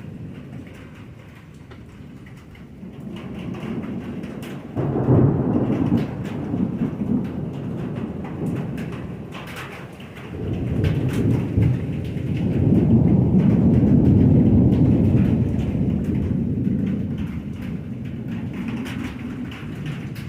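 Thunder rumbling with rain falling. One peal starts suddenly about five seconds in. A second, longer rumble swells from about ten seconds in, is loudest midway, and slowly dies away.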